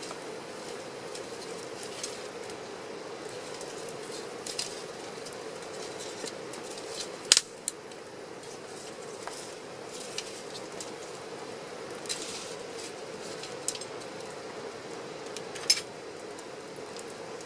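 Wood campfire crackling: a steady hiss with sharp pops scattered through it, two of them much louder, about seven seconds in and near the end.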